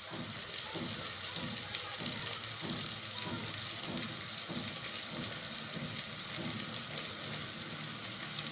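Chopped onion, tomato and garlic paste sizzling steadily in olive oil in a clay pot, with a wooden spoon stirring through it.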